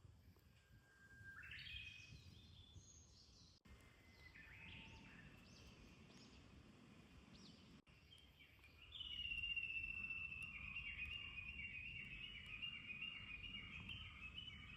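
Wild birds singing faintly: a few scattered calls, then from about nine seconds in a long, quick series of repeated chirping notes, over a soft outdoor background hum.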